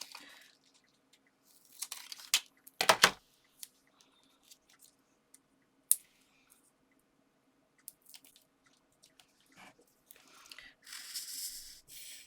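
Paper and card being handled and pressed together: scattered light taps and rustles, a louder crinkle about three seconds in, and a longer papery rasp near the end.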